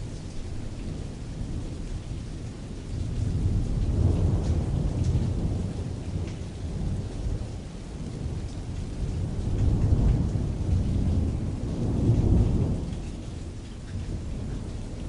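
Rain falling steadily on tent canvas with distant rolling thunder and a soft reverb. The thunder rumbles swell about four seconds in and again around ten and twelve seconds, over a constant patter of drops.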